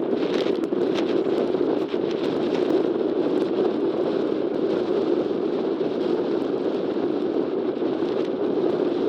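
Airbus A380's four jet engines heard on approach: a steady rushing drone that neither rises nor falls, with a few faint crackles in the first second.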